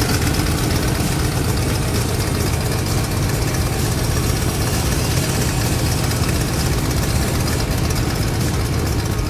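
Small battery-powered RC helicopter with counter-rotating twin main rotors, its motor and blades spinning steadily with a low rumbling whirr close to the microphone.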